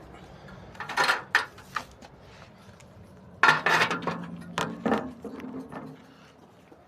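Clattering knocks and rattles in two bursts, about a second in and again midway, with a pigeon cooing low beneath the second burst.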